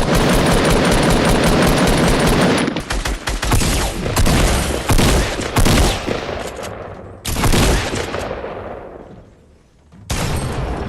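Video game gunfire: dense automatic fire for the first few seconds, then a run of separate loud shots and a final blast that dies away, before a different sound cuts in near the end.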